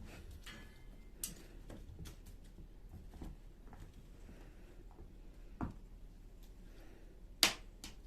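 Scattered light clicks and taps in a small room, with a few sharper knocks, the loudest about seven and a half seconds in.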